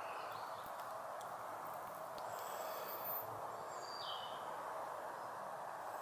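Steady outdoor background hiss with a few thin, high-pitched bird calls: short high notes about two seconds in, then a couple of brief notes falling in pitch about four seconds in.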